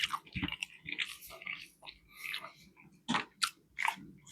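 Close-miked chewing of a fish fillet sandwich, with wet mouth clicks and lip smacks coming irregularly, several a second.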